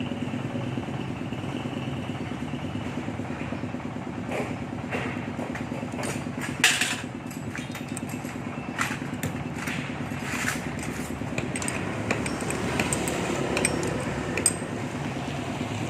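A machine hum runs steadily throughout, with scattered sharp metallic clicks and knocks over it. The loudest knock comes about six and a half seconds in.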